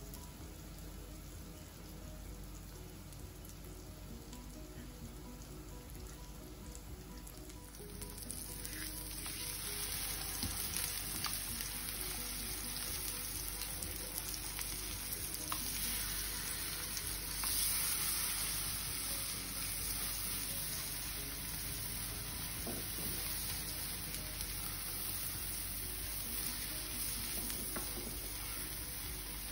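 Chicken burger patties frying in butter in a flat pan, a steady sizzle that grows louder about eight seconds in.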